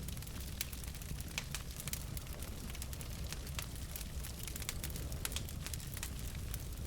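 Wood fire of burning logs in a fireplace, crackling with frequent irregular sharp pops and snaps over a steady low rumble.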